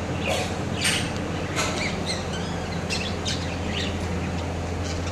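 Pet bird chirping: short, high calls repeated about every half second through the first four seconds, over a steady low hum.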